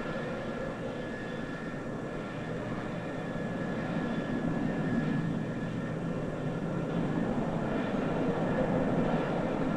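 Concorde 002's Olympus 593 turbojets on landing approach: a steady jet rumble with a high whine over it, slowly growing louder.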